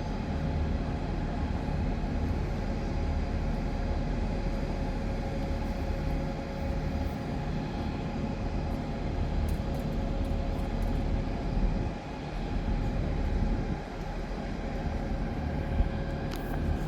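Steady low rumble with a constant mid-pitched hum running through it, and a few faint clicks.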